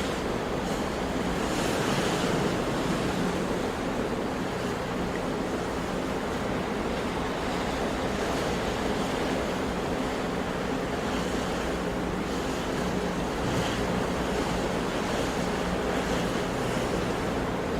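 Sea waves washing onto a shore in a continuous, steady wash of surf, swelling gently now and then.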